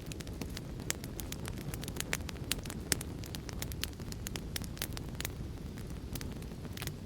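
Wood fire crackling: irregular sharp pops and snaps over a steady low rumble, with a few louder pops about a second and three seconds in.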